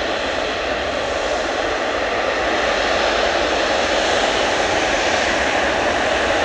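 Boeing 777-300 jet engines running: a steady, loud rush that grows a little louder about two and a half seconds in.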